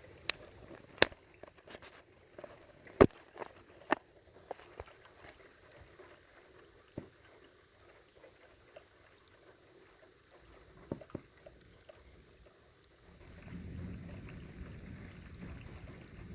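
Scattered large raindrops ticking sharply on a surface close to the microphone during a thunderstorm, a few to a second at first and then sparser. About three-quarters of the way through, a low rushing of wind sets in.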